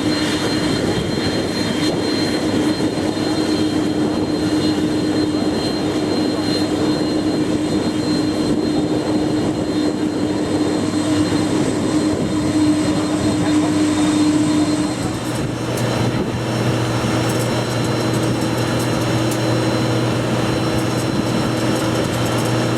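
Aircraft engines running steadily; the engine tone changes to a lower pitch about fifteen seconds in.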